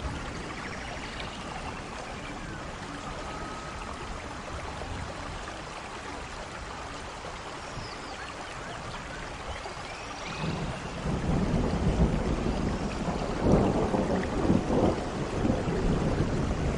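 Steady rain falling, with thunder building about ten seconds in and rumbling in several swells through the end.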